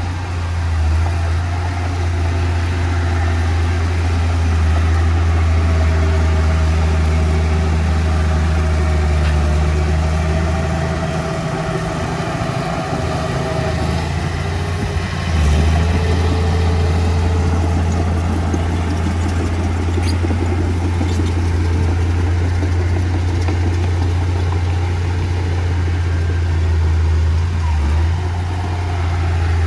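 Diesel engine of heavy earthmoving machinery running steadily with a deep drone. The drone weakens for a few seconds around the middle, then comes back strong.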